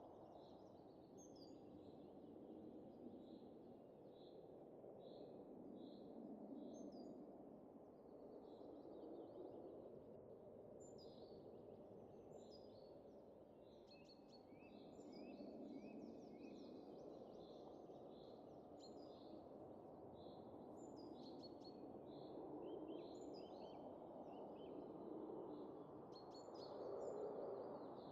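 Soft winter wind rising and falling gently, with small birds chirping in quick, repeated high notes throughout.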